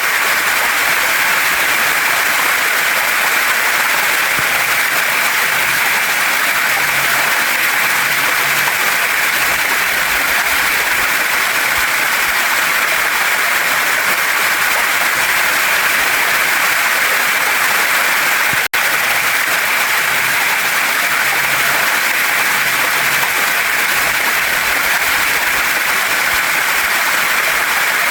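Waterfall and mountain stream rushing over rocks: a loud, steady hiss of falling water that breaks off for an instant about two-thirds of the way through.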